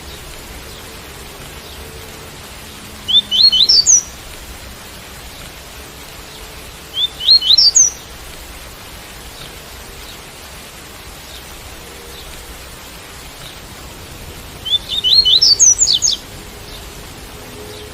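Double-collared seedeater (coleiro) singing the 'tui-tui' song type: three short phrases of quick, high rising notes, the last one longest, over a steady hiss of rain.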